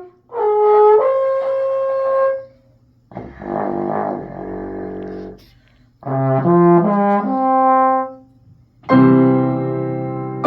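A low brass instrument in the trombone range playing quick runs of separate notes ending on held notes, then a rougher, breathier passage, another run, and a loud sustained note about nine seconds in.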